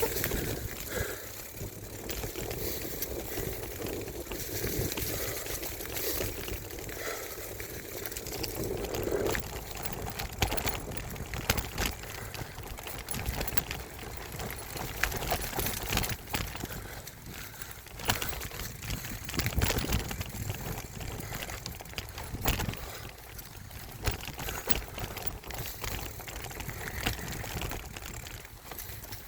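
Mountain bike ridden along a dirt trail: a steady rushing noise from the rolling tyres and moving air, with frequent short knocks and rattles as the bike goes over bumps.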